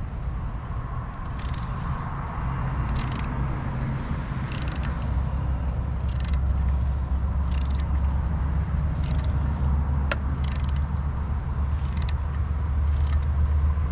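Socket ratchet turning off a nut on an outboard's lower unit: a short burst of pawl clicking about every second and a half as the handle is swung back, over a steady low hum.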